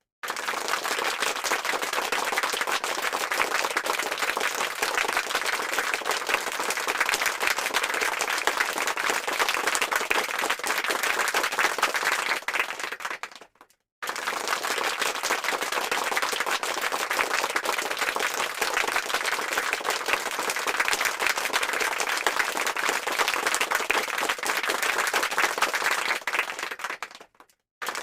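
Crowd applause: many hands clapping in a dense, steady patter. It fades out and stops briefly about halfway through, then starts again at full strength and fades out again near the end.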